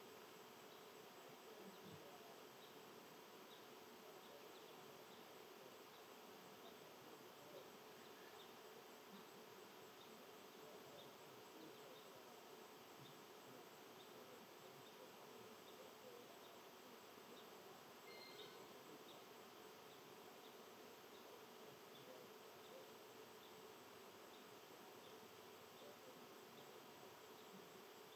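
Faint outdoor ambience: a low steady hiss with soft, evenly spaced insect chirps.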